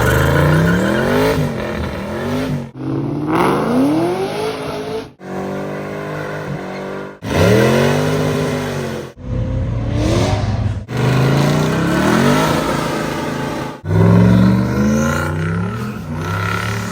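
Muscle car engines revving and accelerating hard, in about seven short clips of two to three seconds each, cut one after another. In each clip the engine note climbs and drops as the car pulls away and shifts.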